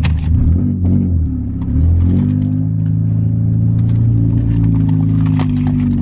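Car engine running as the car pulls away, its pitch shifting in the first two seconds and then holding steady, with a few light clicks over it.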